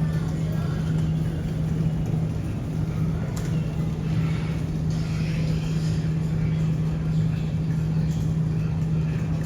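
A steady low mechanical drone with a constant hum and a rumble underneath, with faint voices in the background.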